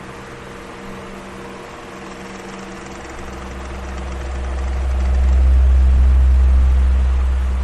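Electric fan running steadily with a motor hum and a rush of air. A deep rumble of air hitting the microphone swells from about three seconds in to a loud peak around six seconds, then eases off.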